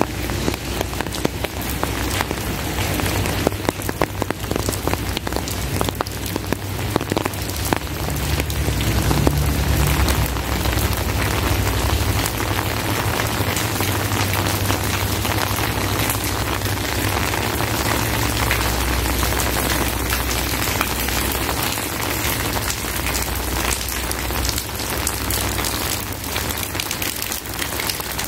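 Heavy rain pouring down steadily, with many sharp, close drop impacts crackling through it. A low rumble rises under the rain for several seconds around the middle.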